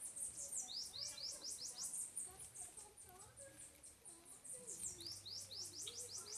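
A bird calling in a rapid, continuous series of high chirps, each sweeping quickly down in pitch, about five a second.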